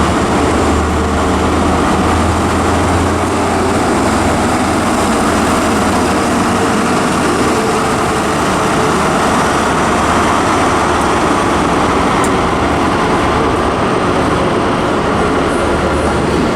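ScotRail High Speed Train (InterCity 125) arriving, its class 43 diesel power car running with a deep hum over steady train noise; the hum is strongest in the first few seconds, then eases.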